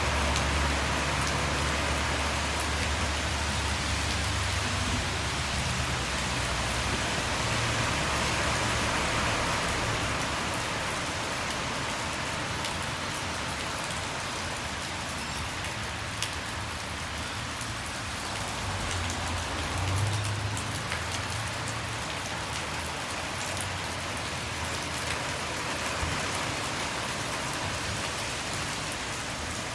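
Steady rain falling on hard surfaces. A low rumble of passing traffic fades out over the first ten seconds and swells briefly again about twenty seconds in, and there is a single sharp tick about sixteen seconds in.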